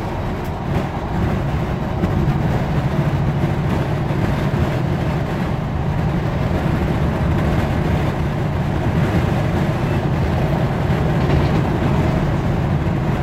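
Steady on-board running noise of a Class 156 diesel multiple unit at speed: the drone of its underfloor Cummins diesel engine mixed with the rumble of wheels on rail, heard inside the passenger saloon.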